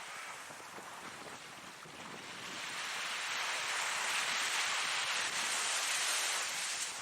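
Ocean surf: a wave breaking and washing in, swelling to its loudest in the middle and falling away near the end.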